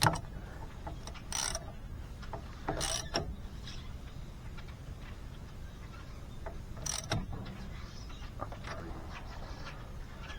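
Scattered mechanical clicks and clacks, the sharpest near the start, about a second and a half and three seconds in, and again about seven seconds in, from the International Harvester LB engine being turned over by hand while its magneto spark is checked.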